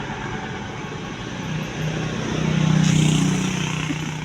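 A truck driving past: the engine drone and road noise grow louder, peak about three seconds in, then fade.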